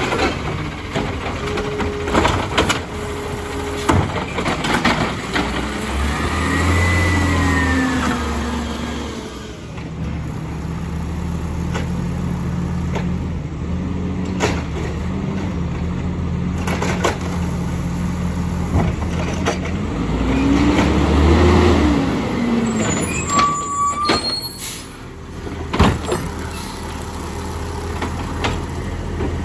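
Amrep garbage truck's diesel engine running and revving up twice to drive the hydraulic lifting arm, its pitch rising and falling each time. Scattered metallic knocks from the cart and body and a hiss of air brakes near the end, with rain on top.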